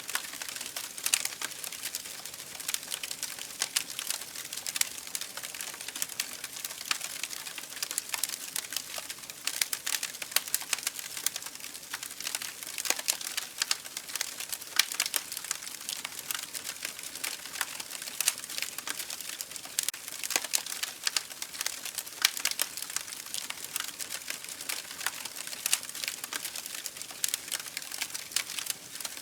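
Campfire burning, with wood crackling and popping in quick irregular snaps over a steady hiss.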